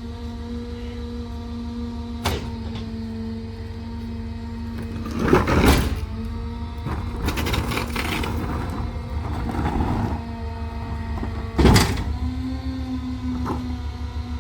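Garbage truck running with a steady hydraulic whine over the engine rumble, its pitch stepping up near the end. Two sharp bangs come about two seconds in and again near the end, with bursts of clattering in between as the truck works its load.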